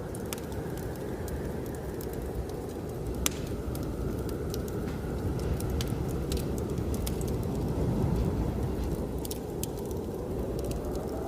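Wood fire crackling with scattered sharp pops over the steady low rush of blizzard wind. Near the end the wind rises into a faint whistling howl.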